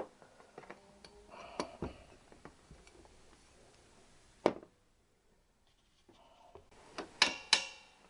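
Metal parts and hand tools clinking and knocking as they are handled on a workbench: scattered light clicks, one sharp clink about halfway, then a quick run of ringing metallic clinks near the end.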